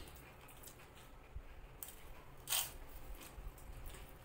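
Faint chewing of crisp fuchka (pani puri) shells, with small crunches and mouth clicks. One louder, brief noisy sound comes about halfway through.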